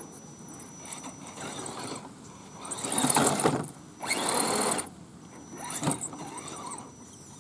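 Electric RC 4x4 scale truck's motor and drivetrain whirring in short bursts of throttle, loudest in two bursts about three and four seconds in. A faint steady high whine sounds between the bursts.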